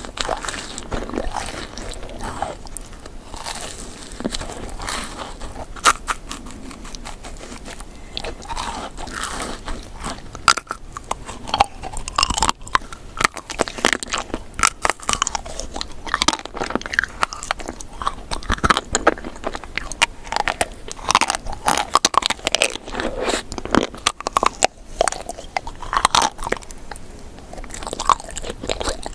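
Close-miked mouth sounds of someone biting and chewing crunchy sweet food, with a rapid, irregular stream of crackling clicks that gets busier about halfway through.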